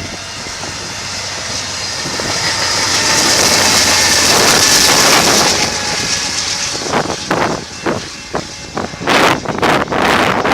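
A train rolling past, its rushing sound swelling to a peak about four to five seconds in and then easing off. From about seven seconds, irregular gusts of wind buffet the microphone.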